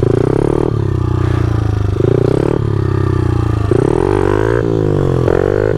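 Small pit bike engine running loud under throttle, its revs rising and falling several times as the rider works through a slow seat-stander circle.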